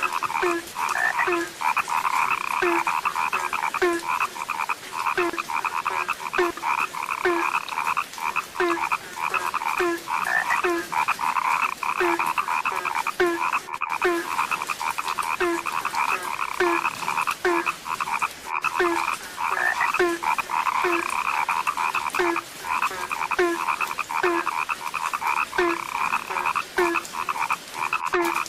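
A dense frog chorus: many frogs calling at once in quick, overlapping pulses, with one lower croak repeating steadily a little more than once a second.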